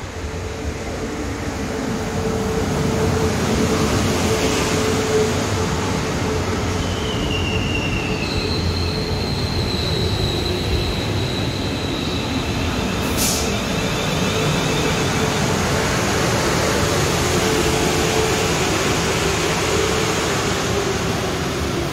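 South Western Railway multiple-unit train running in and braking along the platform on wet rails, its wheels and running gear rumbling, growing louder over the first few seconds. High brake and wheel squeals come in about a third of the way through and hold for a few seconds, and a single sharp crack sounds near the middle.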